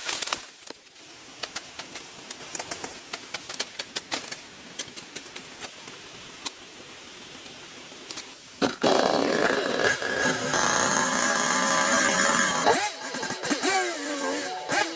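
Scattered light clicks and taps, then a small motor starts abruptly about nine seconds in and runs loud and steady.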